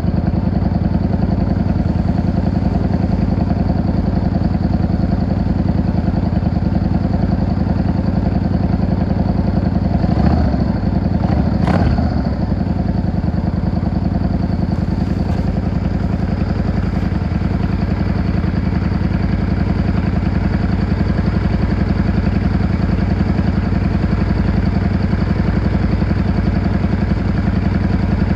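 Yamaha XVS 650 V-Star's air-cooled V-twin engine running steadily at a cruising pace. The engine note swells briefly about ten seconds in, and there is a single sharp click about twelve seconds in.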